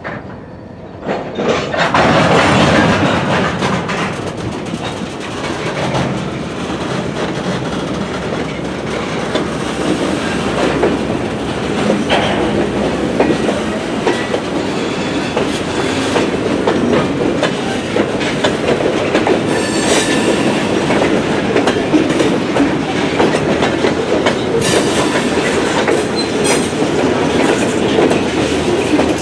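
Covered hopper cars of a freight train rolling past, a steady clatter of steel wheels on the rails that grows loud about a second in, with scattered sharper clanks.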